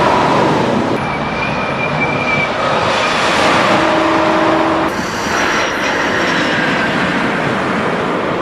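High-speed train running at speed: a loud, steady rushing noise with faint whining tones, changing abruptly about a second in and again about five seconds in.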